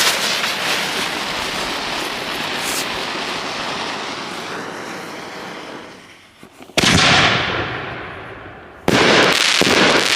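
Double-break aerial firework shell: a steady hiss fading out over the first six seconds, then a loud bang about seven seconds in that echoes away, and a second bang about nine seconds in with a sharp crack right after it, as the shell's breaks burst.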